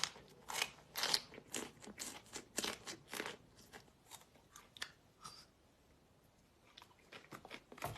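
Close-up crunching and chewing of crunchy food, a quick run of loud crisp crunches that thins out about halfway through, then a short lull before a few more crunches near the end.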